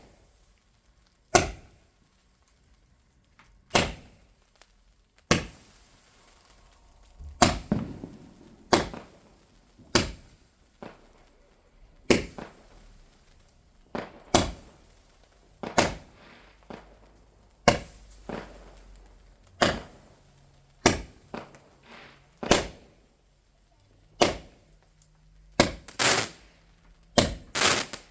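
Fireworks going off: about twenty sharp bangs at irregular intervals of one to two seconds, each dying away quickly.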